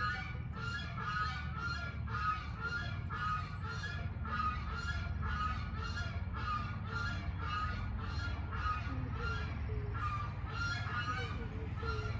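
A bird calling over and over in a steady rhythm, about two calls a second, over a steady low hum.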